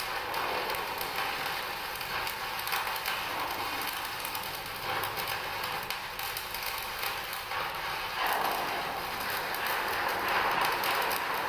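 Arc welder running a vertical corner weld: a steady crackling, sizzling hiss from the arc, with a slight change in its tone about eight seconds in.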